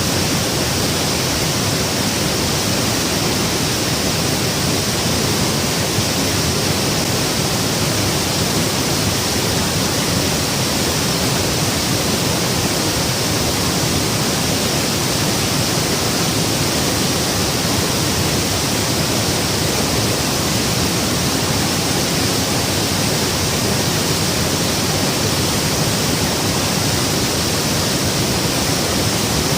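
Waterfall close by: a steady, loud rush of falling water that does not change.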